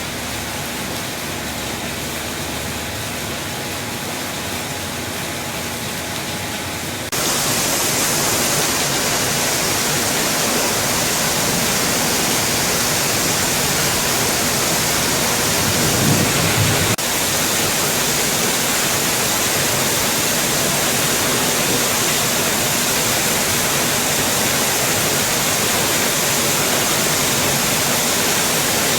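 Heavy rain falling steadily, a dense even hiss that suddenly gets louder and brighter about seven seconds in. About sixteen seconds in, a brief low rumble rises under the rain and cuts off a second later.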